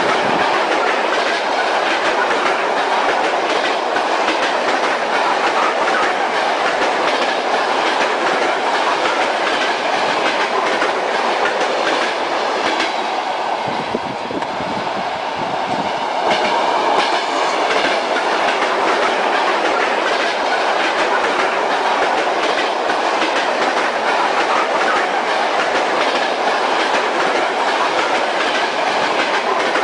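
Train wheels clacking over the rail joints with a steady rolling rumble, as heard riding inside a railway carriage; it eases slightly for a few seconds midway.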